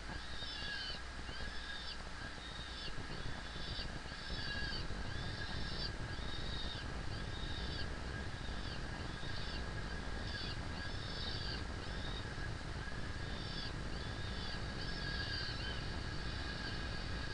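Peregrine falcon giving a long run of repeated high, arching calls, about one and a half a second, over a steady low rumble.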